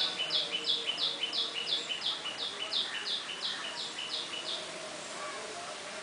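A bird calling a rapid run of short, high, falling notes, about three or four a second, that stops about four and a half seconds in.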